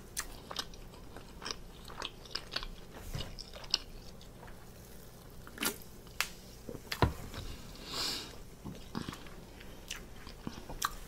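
Close-miked chewing with wet mouth clicks and smacks, a sip from a can of sparkling water midway, and a short breath out shortly after.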